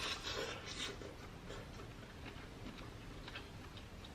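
A person chewing a mouthful of baked lobster tail: soft mouth noises with scattered faint clicks and smacks, a little stronger in the first second.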